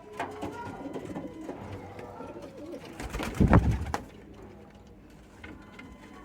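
Domestic pigeons cooing. About three seconds in there is a louder low rustle and thump lasting under a second.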